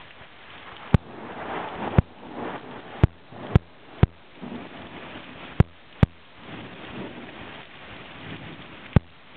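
Storm noise: a hiss of rain and wind that swells and fades, broken by about eight sharp clicks at uneven intervals.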